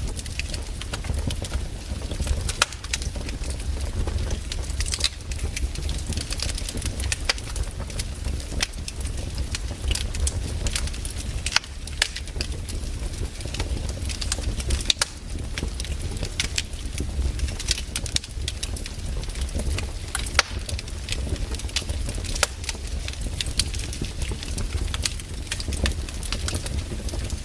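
Campfire burning: wood crackling with frequent, irregular sharp pops over a low, steady rumble.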